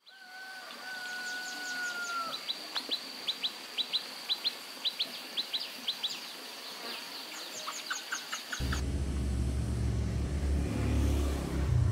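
Birds calling: a long whistled note, then a quick run of short downward chirps, about three or four a second, over a steady high-pitched buzz. About eight and a half seconds in, this cuts abruptly to a low engine or motor rumble.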